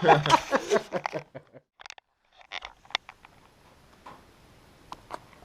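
A man's voice trailing off in the first second, then a few faint, sharp clicks and taps.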